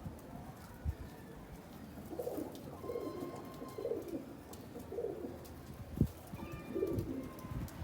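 Domestic pigeon cooing: a series of low, warbling coos about once a second, starting about two seconds in. A sharp knock about six seconds in is the loudest sound, with a smaller one about a second in.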